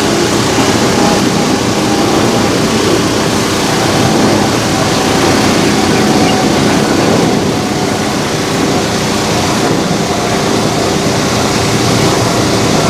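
Twin GE90 jet engines of an EVA Air Boeing 777-300ER running, a loud steady noise with a faint low hum of held tones.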